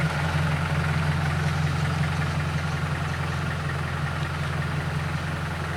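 Diesel engine of a six-wheel dump truck idling steadily.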